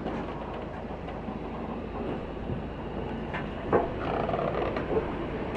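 Steam train on the move: a steady rumble with a few scattered knocks, getting a little louder about four seconds in.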